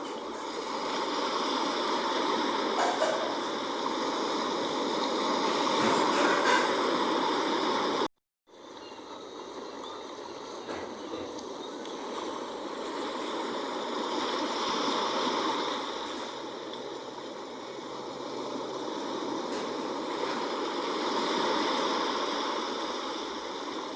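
Sea waves washing in and drawing back, a continuous rush of water that swells and eases every several seconds. The sound drops out completely for a moment about a third of the way in.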